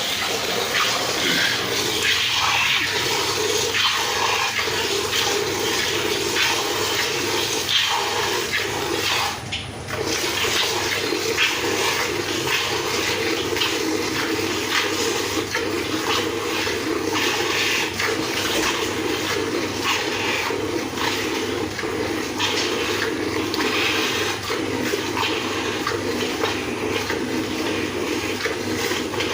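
Water gushing and splashing steadily as a cow is washed down, with a short break about nine and a half seconds in.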